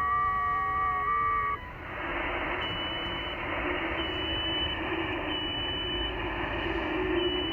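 Several FT8 digital signals on the 40 m band coming through an HF receiver: steady tones that step in pitch, all ending together about one and a half seconds in, when the transmit period closes. Receiver band hiss follows, with a faint whistle near the top of the passband that comes and goes.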